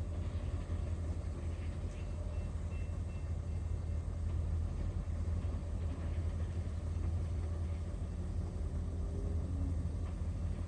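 Steady low rumble of a freight train rolling past.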